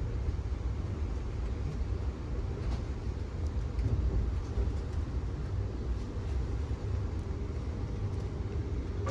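Steady low rumble and rolling noise of the Amtrak Auto Train in motion, heard from on board.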